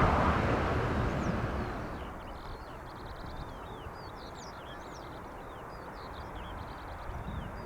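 Jet aircraft noise dies away over the first two seconds, then small birds chirp and trill repeatedly over a low, steady outdoor rumble.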